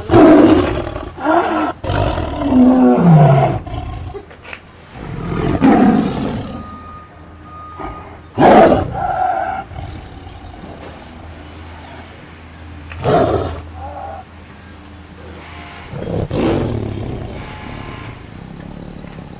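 Tiger roaring again and again: a quick run of roars in the first few seconds, then single roars every few seconds.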